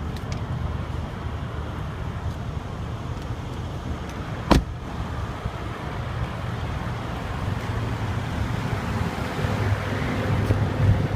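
Mercedes-Benz ML63 AMG's 5.5-litre twin-turbo V8 idling steadily, with one sharp click about four and a half seconds in.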